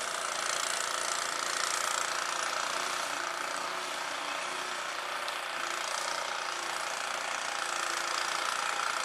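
Snow blower engine running steadily.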